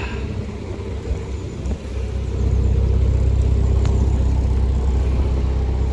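Wind gusting across the microphone, a low rumble that wavers and then swells about two seconds in, over the narrowboat's engine running while under way.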